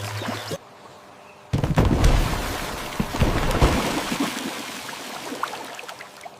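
A thunder-like sound effect: a sudden loud rumbling boom about one and a half seconds in, followed by a crackling hiss like rain that slowly fades.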